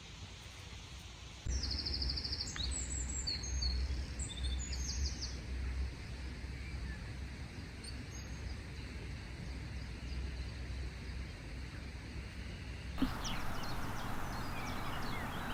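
Small birds chirping and trilling in a flurry of high calls in the first few seconds, over a steady low rumble of outdoor ambience.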